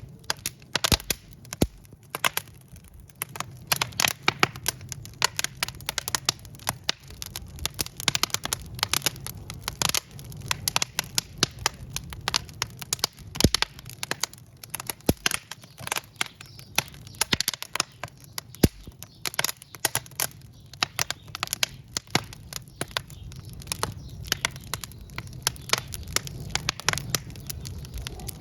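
Wood logs burning in a fireplace, crackling and popping in dense, irregular snaps over a low rumble of the flames.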